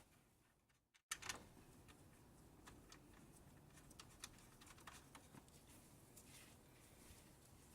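Faint scattered ticks and light clicks over low background noise, with a sharper click about a second in, just after a brief drop to silence.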